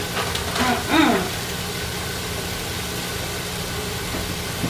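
Chunks of precooked chicken sizzling in oil in a pot: an even frying hiss over a steady low hum.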